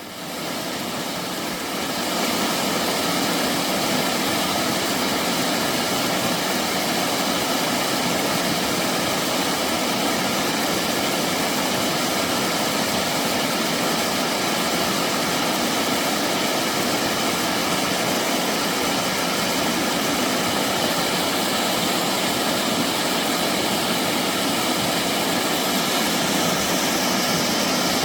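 Steady rush of a mountain stream flowing over rocks, fading in over the first two seconds.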